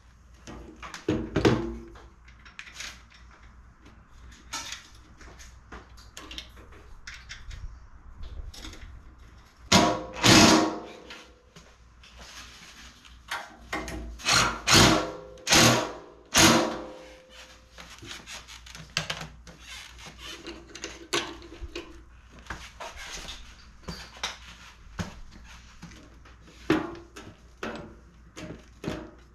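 Irregular knocks, clicks and clatter of hand tools and metal parts being handled while reassembling a generator. The loudest clusters come about a third of the way in and again just past the middle.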